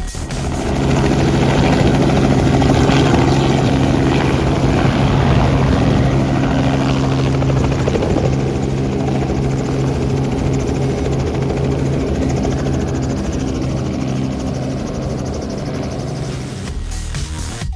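Helicopter in flight: a steady engine drone with fast, even rotor-blade chop, swelling in just after the start.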